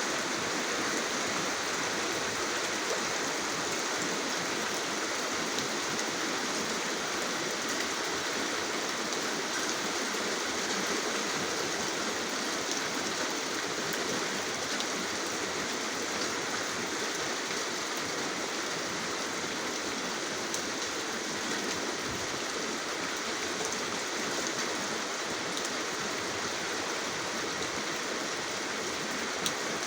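Steady rainfall: an even hiss with a few sharper drop ticks.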